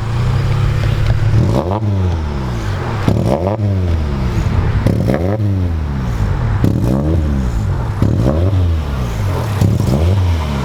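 Acura Integra's B18B1 four-cylinder engine revved over and over, its pitch climbing and dropping back about every second and a half. It will not rev past a certain RPM, which the owners put down to a faulty pin or solenoid near the intake and later call a misfire.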